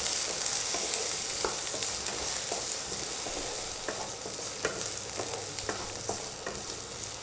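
Cubed potatoes sizzling in hot oil in a nonstick kadhai on low heat while a wooden spatula stirs them, with scattered light taps and scrapes of the spatula against the pan.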